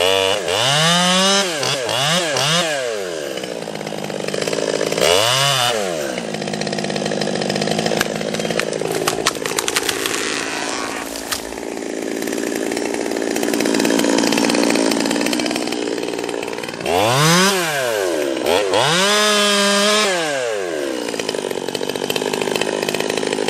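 Stihl chainsaw felling a small tree. It is revved up and down several times in the first few seconds, then held at high revs through long stretches of cutting, blipped twice more later on, and drops off abruptly at the very end.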